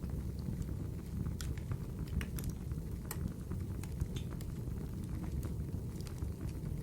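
Wood fire burning in a fireplace: a steady low rumble of flames with scattered sharp crackles and pops, most of them in the first half.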